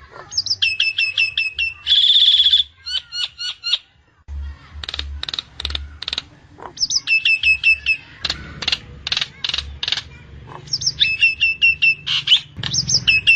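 Nias hill myna calling loudly: sharp clicking calls and quick runs of falling whistled notes, with a harsh buzzy note about two seconds in. This is the kind of song played to a caged bird to get it singing.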